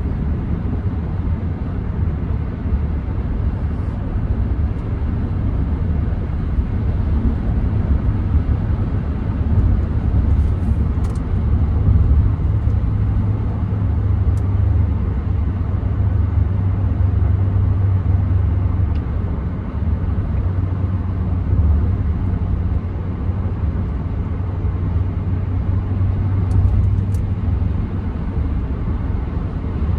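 Steady low rumble of a 2014 Ram 1500's 5.7 Hemi V8 and its tyres, heard from inside the cab while the truck is driven, swelling a little in the middle.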